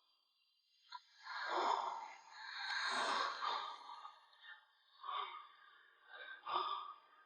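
A person breathing hard, a series of heavy, gasping breaths as if out of breath.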